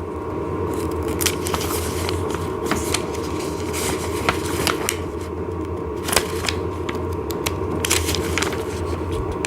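Paper instruction sheets rustling as they are handled and leafed through, with scattered light clicks and scrapes, over a steady low hum.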